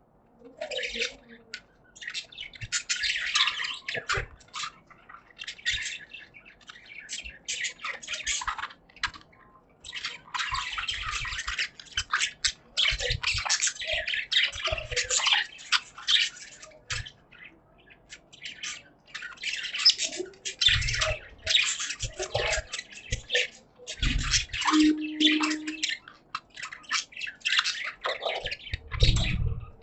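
Budgies chattering and warbling in a cage: a busy stream of quick, high-pitched chirps and squawks with short pauses. A few low thumps come through in the second half.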